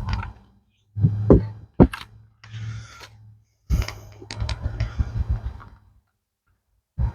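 Handling noise from closing up a wooden beehive: a few sharp knocks and rustling in short bursts over a low hum.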